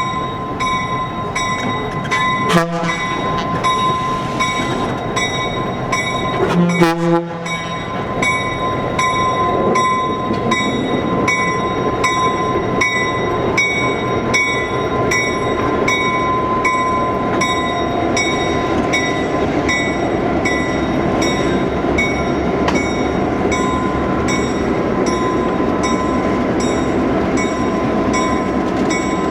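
A locomotive running light with its bell ringing steadily, about once a second, over engine and rail noise. Two brief loud blasts come in the first seven seconds.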